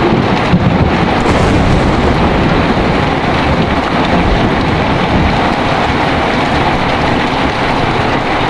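Heavy rain falling steadily under a continuous low rumble of thunder, with a few heavier rolls in the first second.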